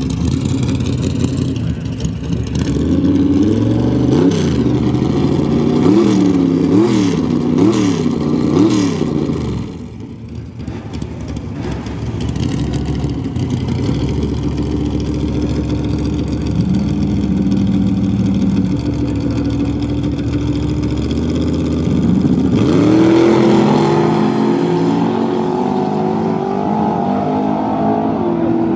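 Drag race car engine revved in a string of quick blips, about one a second, for the first ten seconds. It then settles to a lower, steadier running note, and about 23 seconds in it goes to full throttle with a sudden jump in loudness and rising pitch, as in a launch.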